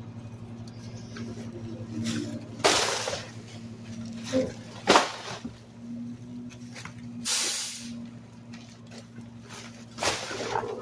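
Garbage truck engine running steadily, broken by four short bursts of hiss, one of them a sharper knock.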